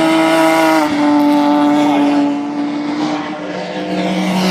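Racing car engine at high revs on track, loud and steady, its pitch stepping down about a second in and dropping lower again near the end.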